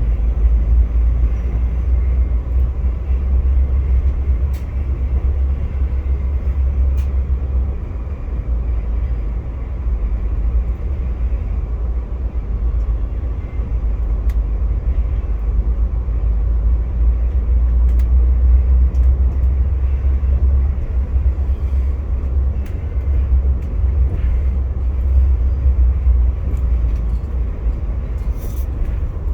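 VIA Rail passenger train heard from on board, running along the track with a steady low rumble and scattered faint clicks.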